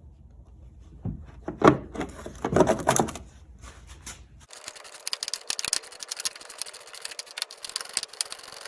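A few metal clinks and knocks, then from about halfway in a steady run of rapid clicking from a socket ratchet as the door-hinge bolts are run in.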